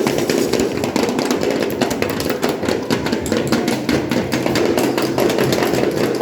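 Children's noise orchestra beating percussion and noise instruments: rapid, dense, uneven knocking and tapping.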